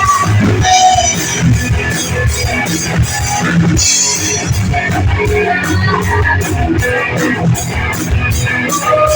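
A rock band playing live: electric guitar, bass and drum kit with cymbals, loud and steady.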